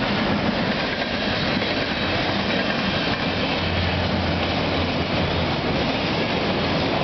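Freight cars of a Canadian Pacific train (covered hoppers and autoracks) rolling past close by, their steel wheels running steadily over the rails. A low steady hum joins in for a couple of seconds around the middle.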